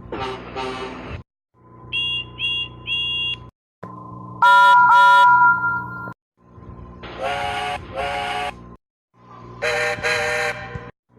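A run of separate steam locomotive whistle clips with short silences between them: two toots, then three short high toots, then one long two-note whistle that is the loudest, then two more pairs of toots.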